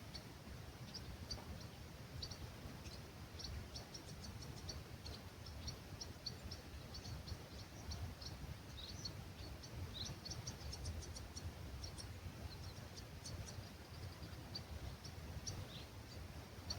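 Songbirds chirping at dawn in an olive grove: many short, high notes from several birds, busiest a little past the middle, over a faint, steady low rumble of wind or distant background.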